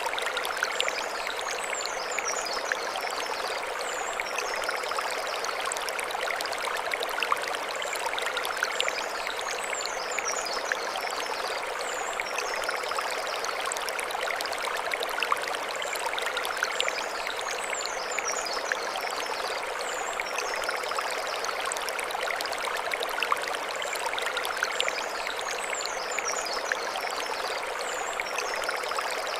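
Mountain stream running steadily over stones, a continuous splashing rush. A short high chirping phrase comes back about every eight seconds.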